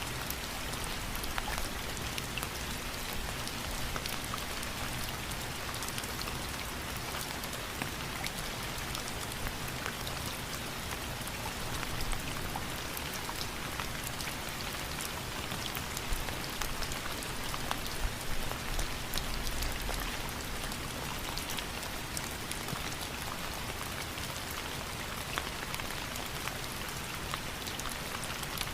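Steady rainfall, a dense hiss of drops with many individual drops ticking on a surface.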